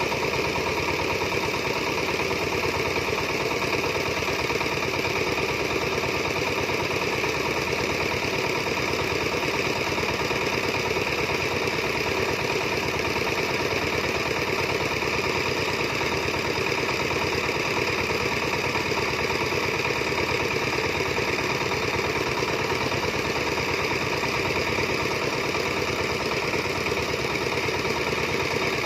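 Diesel farm engine running steadily at a constant speed, an even throb that does not change.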